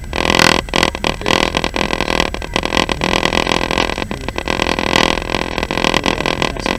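Steady running noise of a moving passenger train heard from inside the carriage, a dense rumble and rattle that never lets up.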